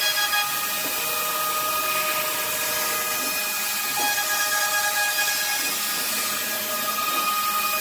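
Hiteccnc HTM1325 CNC router running: a steady whine of several held tones over a continuous hiss, typical of the spindle cutting wood. The tones ease off in the middle and come back near the end.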